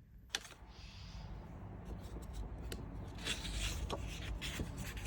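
Rubbing and scraping noises with scattered short clicks, one sharp click about a third of a second in, growing gradually louder.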